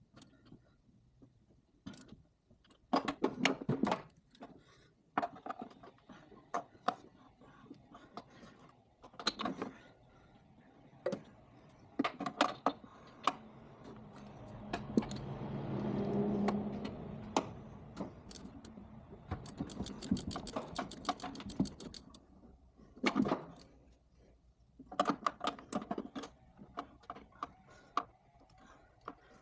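Metal hand tools clinking and knocking at an engine, in scattered sharp strikes, with a quick run of rapid clicks about twenty seconds in. A hum swells up and fades away in the middle.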